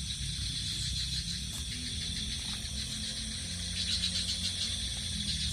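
Night insect chorus of crickets trilling steadily, a high pulsing drone that swells about four seconds in, over a low steady rumble.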